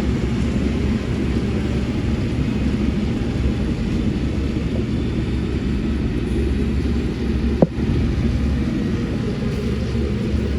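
Heavy diesel engine of construction machinery (a dump truck or bulldozer) running with a steady low rumble, with one short sharp click about seven and a half seconds in.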